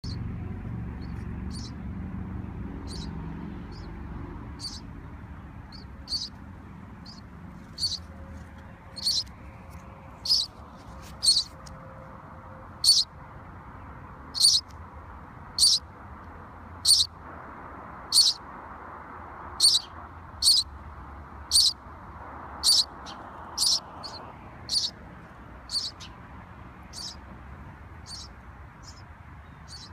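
Baby birds calling: a long series of short, high-pitched calls, about one a second, loudest in the middle stretch, over a low steady background noise.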